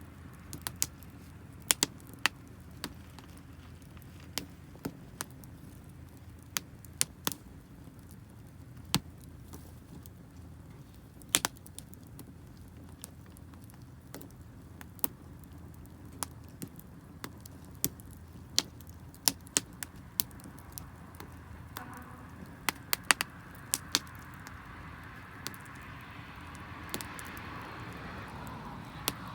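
Wood campfire crackling, with irregular sharp pops and snaps of burning damp firewood. A soft hiss builds up over the last few seconds.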